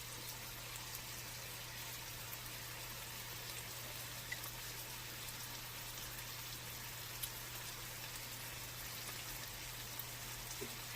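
Pieces of boneless chicken thigh frying in a pan: a faint, steady sizzle with a few small pops scattered through it.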